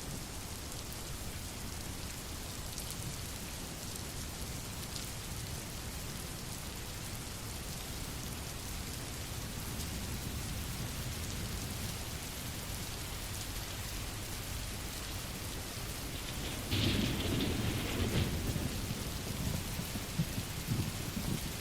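Recorded rain falling steadily, with a low rumble underneath. About three-quarters of the way through it briefly swells louder, and sharper single drops stand out near the end.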